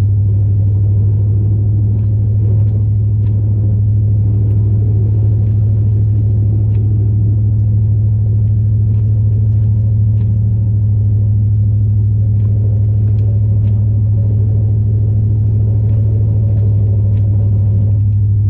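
Steady low drone of a 2002 Chevrolet Silverado's 8.1 L big-block V8 and drivetrain, heard inside the cab while the plow truck drives, with a few faint ticks scattered through.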